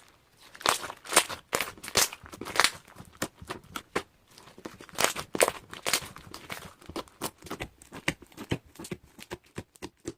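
Irregular crinkling and rustling with sharp clicks, several a second, something being crumpled or handled close to the microphone, loudest in the first half and again about five seconds in.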